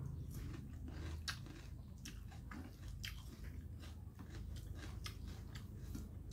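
Close-up chewing and biting of chicken and rice, with many short wet mouth clicks over a low steady hum.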